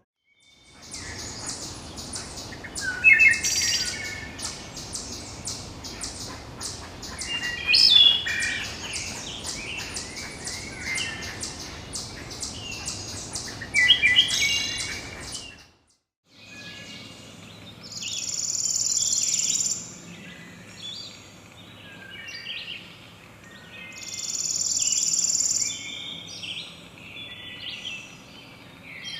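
Small songbirds chirping and singing over a dense run of rapid high ticks. About halfway through the recording changes, and the chirps alternate with a high buzzing trill that comes in bursts of about two seconds.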